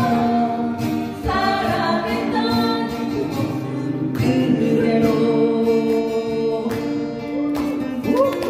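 A group of singers singing a song together over instrumental accompaniment, drawing out long held notes.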